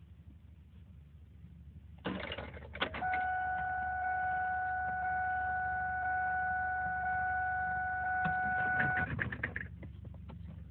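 A 2003 Ford Mustang GT being cranked without starting. A run of rapid clicks is followed by a steady, even, high whine for about six seconds, and more rapid clicks come as it stops.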